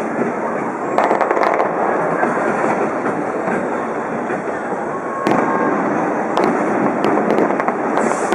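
Aerial fireworks display: shells bursting and crackling continuously, with fresh loud volleys breaking about a second in and again about five seconds in, and several sharp reports between.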